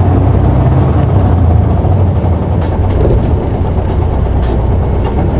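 City bus diesel engine of a Toei PKG-KV234L2, heard from inside the cabin, working hard as the bus pulls away from a stop. The low engine drone eases a little about halfway through. A few sharp clicks or rattles come near the end.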